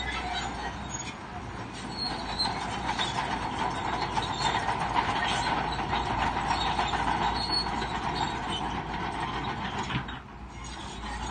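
Bulldozer at work: the diesel engine running under load while the steel crawler tracks clank and squeal. The noise dips briefly about ten seconds in, then picks up again.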